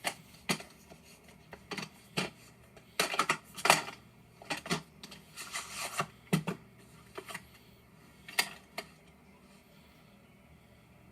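A run of irregular clicks, knocks and rattles from objects being handled, with a busier cluster about three to four seconds in and the last clicks near nine seconds.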